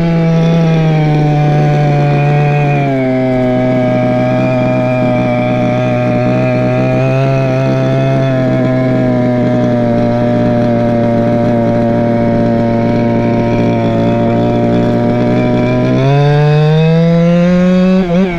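Go-Ped scooter's small two-stroke Chongyang CY26RC engine running under way: the pitch settles lower about three seconds in and holds steady while cruising, then climbs about sixteen seconds in as the throttle opens, with a brief wavering near the end.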